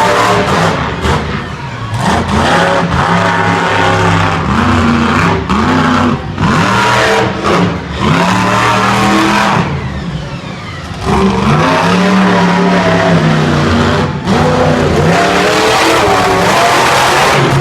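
Monster truck engine being revved hard over and over, its pitch climbing and falling with each burst of throttle. It eases off briefly twice, about two seconds in and again around the middle, before revving up again.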